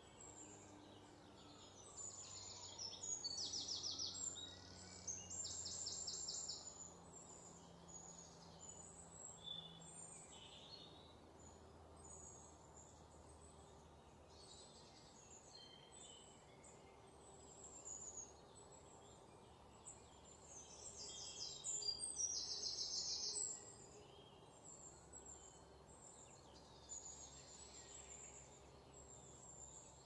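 Wild birds singing and chirping over a faint steady outdoor background. The loudest are fast, high trills of rapidly repeated notes, twice in the first seven seconds and again a little after twenty seconds.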